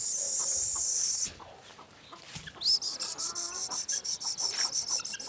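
Free-range chickens clucking, with a loud high-pitched sustained call in the first second and a rapid high trill of about eight pulses a second from about three seconds in.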